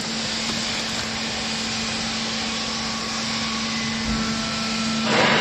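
Hydraulic baler's power unit running: a steady hum under an even rushing machine noise, with a louder rush of noise starting near the end.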